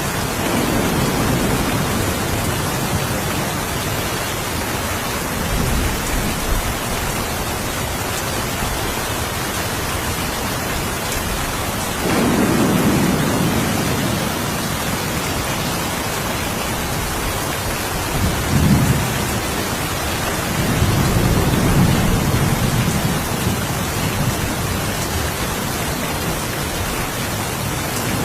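Steady rain falling, with several rolls of distant thunder rumbling under it: one at the start, a longer one about twelve seconds in, and two more close together near the end.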